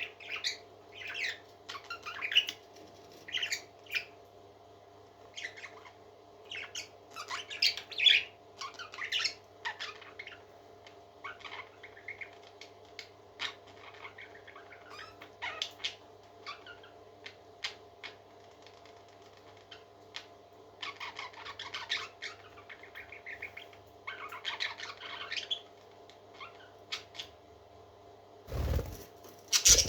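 Baby parrot chirping and squawking in many short, high calls, some in quick runs, over a steady low hum. Two loud knocks or thumps near the end.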